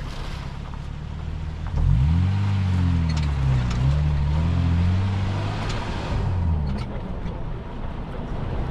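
Car engine running, with a steady low rumble underneath. About two seconds in it grows louder and its pitch climbs, then wavers up and down for several seconds as the revs change before settling back.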